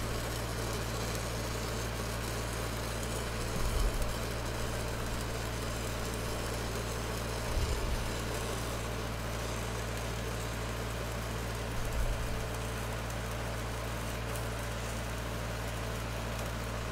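Stick-welding arc from a 6010 rod running a downhill pass on pipe: a steady crackle over a steady low machine hum, with three brief low thumps about four seconds apart.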